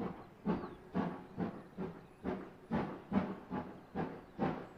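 A voice repeating the phonic sound of the letter V, a buzzing 'vvv', in short even pulses about twice a second.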